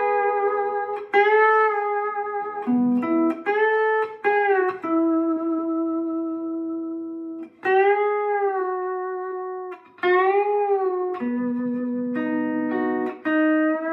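Lap steel guitar tuned G B D G B D, played slowly in E: held melody notes over chords, with a wavering steel vibrato on several of the long notes.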